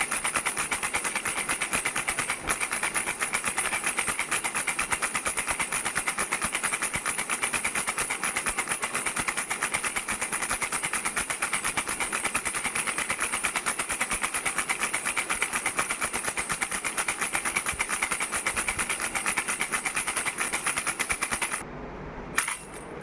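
Baby rattle shaken fast and without a break, a dense run of rapid clicking. It stops about twenty-one seconds in, followed by a few single shakes near the end.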